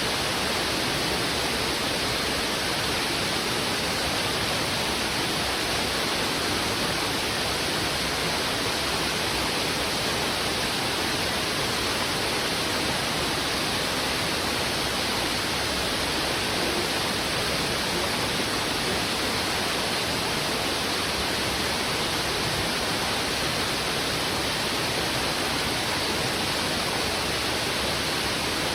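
Heavy river water rushing over rocks, a steady, even wash of flowing water with no breaks or separate splashes.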